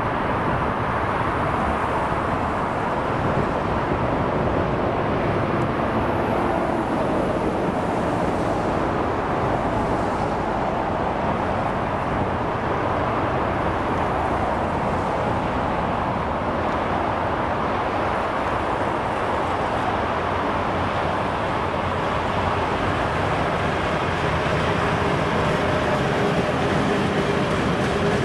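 VL11 two-section DC electric freight locomotive hauling a freight train on its approach: a steady rumbling noise with a faint hum in it, growing slightly louder near the end as the train draws level.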